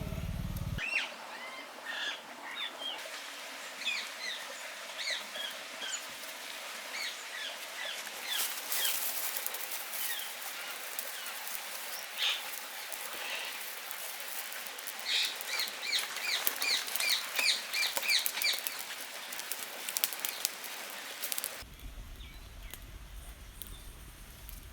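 Small birds chirping outdoors: scattered short call notes, then a quick run of repeated chirps over several seconds in the second half, with a few brief crackly bursts mixed in.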